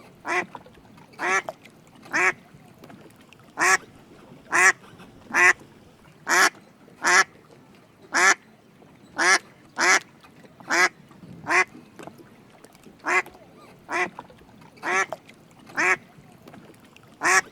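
Drake mallard quacking: short single quacks repeated about once a second, some eighteen in all, with a few slightly longer pauses between them.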